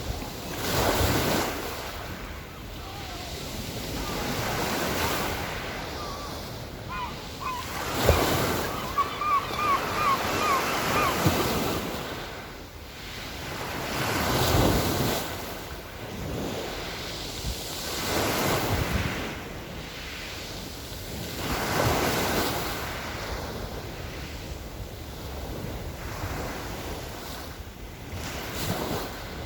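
Small Black Sea waves washing onto the shore in surges every few seconds, with wind buffeting the microphone. From about seven to eleven seconds in, a gull gives a quick series of short, sharp calls over the surf.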